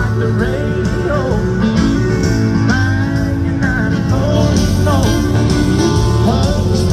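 Live country band playing, with guitar and a singing voice over a steady low bass.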